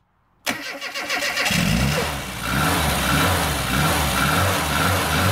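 Car engine starting about half a second in, then running with its revs rising and falling a little.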